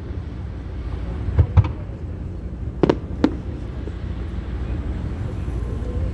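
Aerial fireworks bursting: four sharp bangs in two close pairs, over a steady low rumble.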